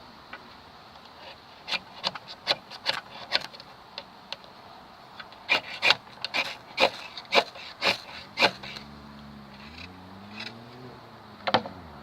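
Hand work on wood: irregular sharp scraping and cracking strokes, in a cluster about two seconds in, a denser run from about five to eight seconds, and one more near the end. A faint low hum that rises and falls comes in during the last few seconds.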